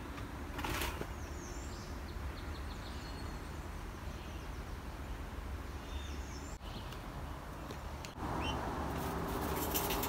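Small birds chirping now and then in short high notes over a steady low outdoor hum, with a brief rustle about half a second in. After about eight seconds the background grows louder and hissier, with a few sharp clicks near the end.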